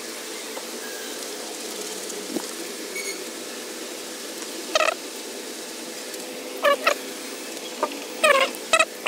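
Bird chirping: a few short, quick chirps that fall in pitch, coming in small clusters through the second half, over a steady faint hum.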